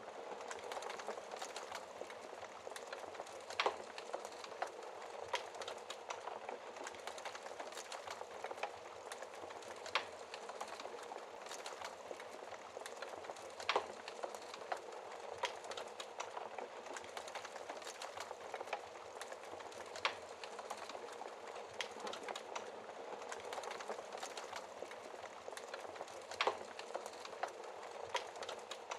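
Wood fire burning in a fireplace: a steady crackling hiss with frequent small ticks and a sharp louder pop every few seconds.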